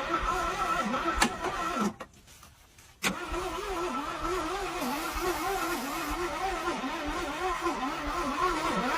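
Starter motor cranking a 1968 Thunderbird's 428 V8 in two long spells with an even, rhythmic churn. The first stops about two seconds in, and after a second's pause the second runs for about six seconds. The engine does not fire, even with starting fluid in the carburettor.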